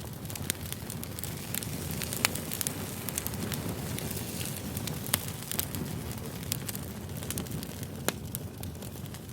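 Campfire burning: a steady low rumble of flames with frequent sharp crackles and pops of burning wood, a few louder pops standing out about two, five and eight seconds in.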